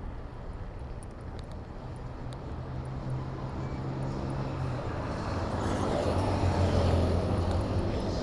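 Street traffic heard from a moving bicycle: motor vehicle engines running close by, one growing louder over the second half as it draws near.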